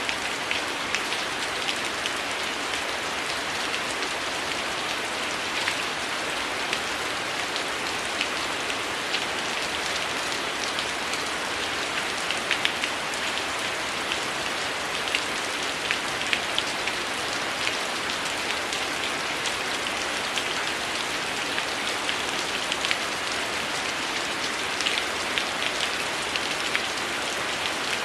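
Heavy rain falling in a steady hiss, with scattered sharp crackles and pops from a wood fire.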